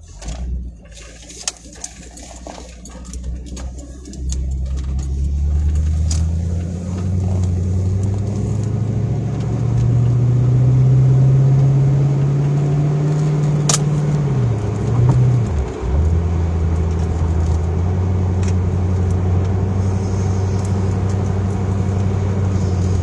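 Car engine and road noise heard from inside the car as it pulls away and speeds up; the engine pitch climbs, drops sharply about fifteen seconds in as it shifts gear, then holds steady at cruising speed.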